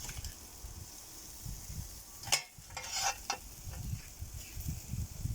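Food sizzling on a barbecue grill, a steady hiss, with two short sharp clicks about halfway through.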